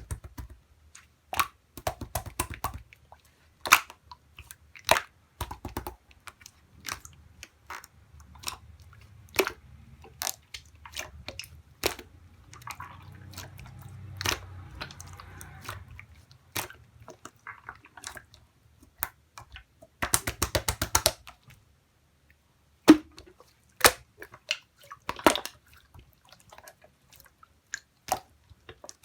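Clear slime being squeezed and pressed by hand, making sharp wet clicks and pops, with a quick run of clicks about twenty seconds in.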